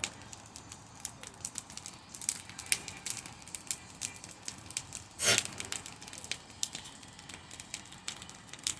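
Campfire crackling, with frequent sharp pops from the burning wood and one louder burst about five seconds in.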